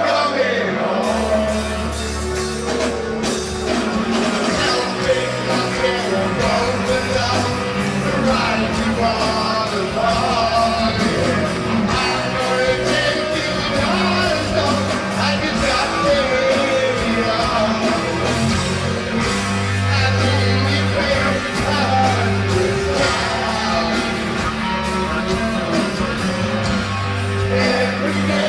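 Live rock band playing a power ballad, with sung lead vocals over electric guitar, bass, drums and keyboards, recorded from within the audience.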